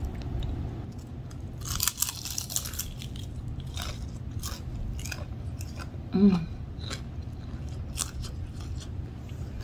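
Close-up crunching and chewing of a deep-fried egg roll. The crisp wrapper crackles hardest about two seconds in, with smaller crunches and mouth clicks throughout, and a short hummed "mm" from the eater about six seconds in.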